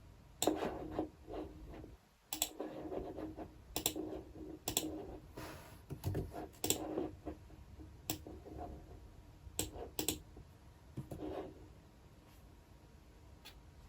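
Typing on a computer keyboard: irregular runs of key clicks with a few louder single strokes, stopping near the end, after which only a faint click or two follows.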